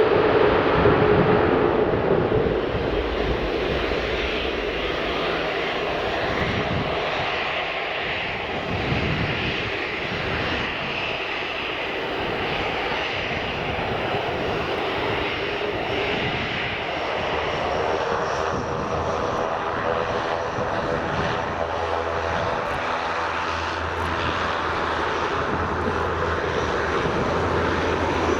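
Jet noise from a Tupolev Tu-154M airliner's three Soloviev D-30KU-154 turbofan engines, a steady rush that is loudest at the start and then settles lower for the rest of the landing pass.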